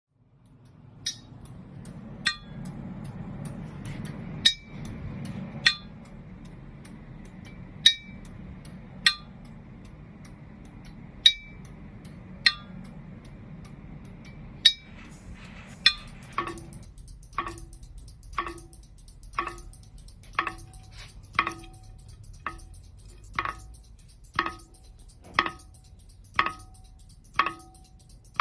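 Sound-art piece. Pairs of sharp, ringing clinks about a second apart repeat over a low hum. From about halfway, a steady pitched tick comes roughly once a second, like a clock.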